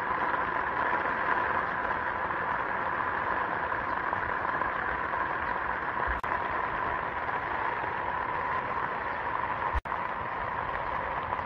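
Steady rain falling on garden plants and soil, an even hiss, broken by a brief dropout about ten seconds in.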